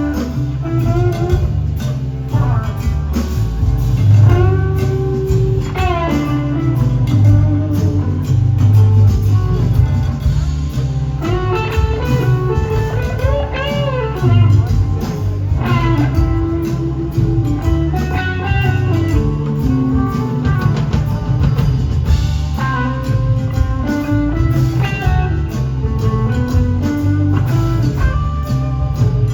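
Live blues-rock band jamming: an electric guitar lead with notes that bend and glide in pitch, over bass guitar and a drum kit.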